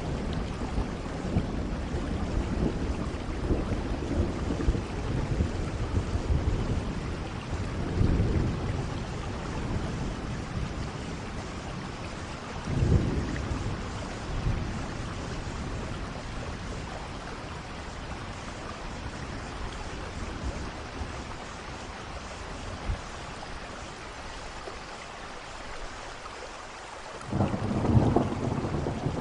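Steady heavy rain with rolling thunder. A sharp thunder crack comes about thirteen seconds in, the rain eases for a while, and a loud rumble of thunder builds again near the end.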